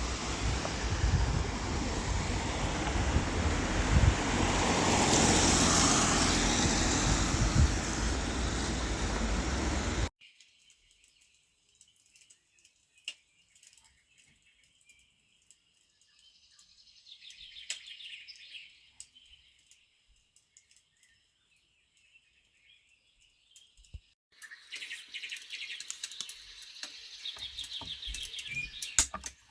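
A loud, steady rushing noise for about ten seconds that cuts off abruptly. Then faint birds chirping, growing busier from about two-thirds of the way through.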